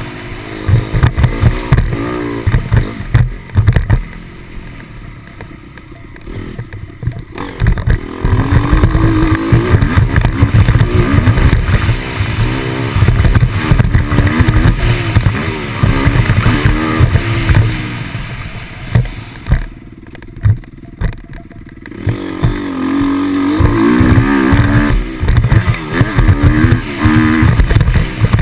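Motocross motorcycle engine revving hard and easing off over and over as it is ridden round a dirt track, the pitch rising and falling with throttle and gear changes, over heavy low thudding. Twice the engine drops back to a low, quieter run for a few seconds before revving up again.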